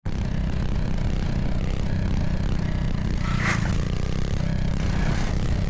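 Minibike's small engine running steadily with a low, even drone. A short hissing burst about three and a half seconds in.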